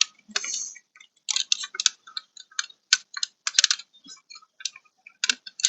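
Irregular plastic clicks and taps, many small ones in quick succession, as car door wiring connectors and trim parts are handled and snapped together.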